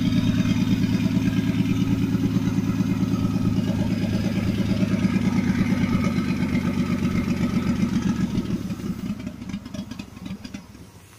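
Nissan RB20 inline-six engine in a home-built motorcycle running at a steady idle with an even pulsing beat; about eight seconds in the sound fades away over a few seconds.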